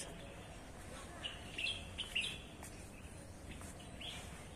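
Small birds chirping faintly: a few short, high calls scattered from about a second in until near the end, over a low, steady outdoor background.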